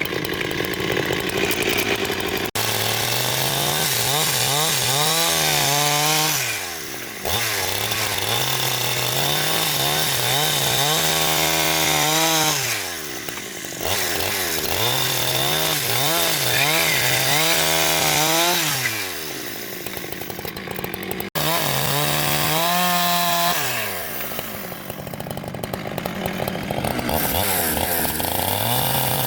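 Chainsaw engine running under load on timber, its pitch holding high, then dropping away and climbing back up several times as the saw is eased off and opened up again.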